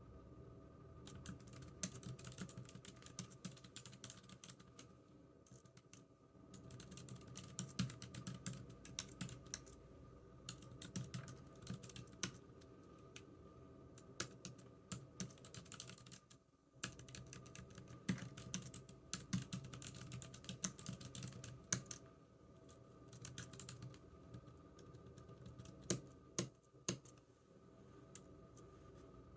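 Typing on a computer keyboard: runs of rapid key clicks with short pauses, over a faint steady hum. The typing stops near the end.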